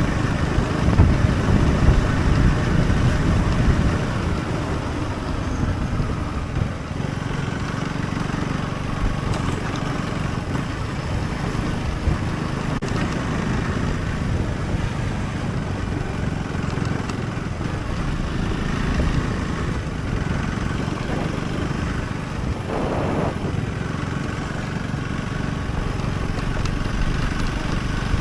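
Husqvarna Svartpilen 401's single-cylinder engine running steadily as the motorcycle is ridden.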